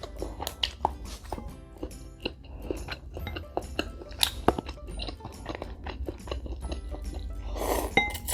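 Close-up chewing and crunching of food as a person eats, with many small wet clicks and crackles, over background music. A short, louder noisy sound comes near the end.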